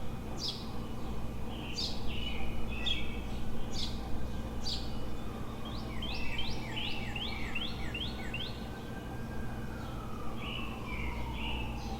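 Several birds chirping in rapid, repeated short calls over a steady low city hum. Midway through, a faint tone slowly rises and then falls in pitch.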